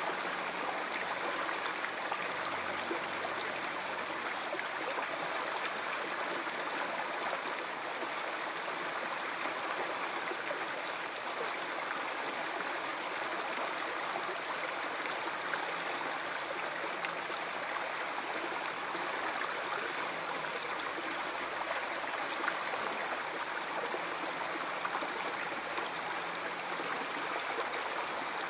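A flowing river: a steady, even rush of water with no change in level.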